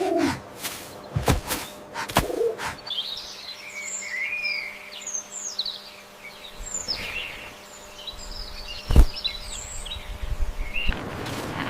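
Birds chirping and calling, several short quick chirps overlapping, starting about three seconds in. A few sharp clicks cut through, the loudest about nine seconds in.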